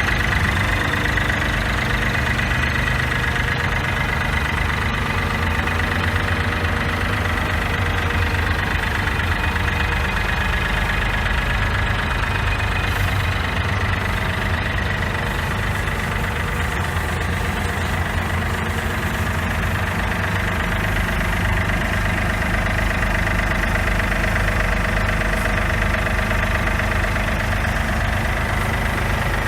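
John Deere 4300 compact tractor's three-cylinder diesel engine idling steadily.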